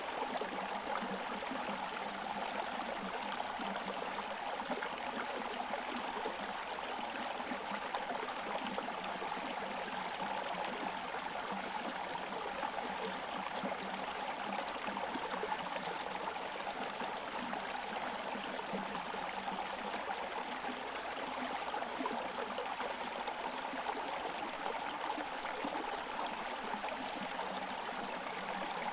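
Forest stream flowing steadily, water running and gurgling past the ice along its partly frozen surface.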